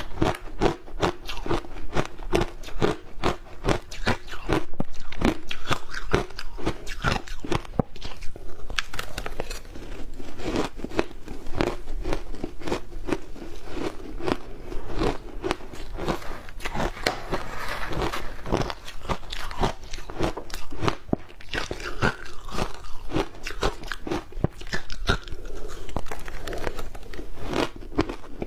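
Close-up biting and chewing of hard ice dusted with matcha powder: a dense run of sharp, crisp crunches and cracks, several a second, with no pause.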